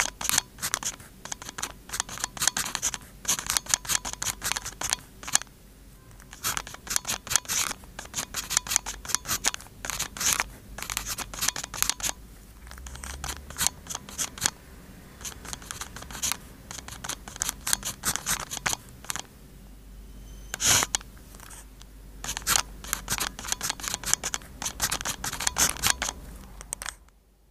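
Pen nib scratching across a postcard in handwriting, quick clusters of short strokes with brief pauses between them. A single sharp tap comes about two-thirds of the way through, and the writing stops just before the end.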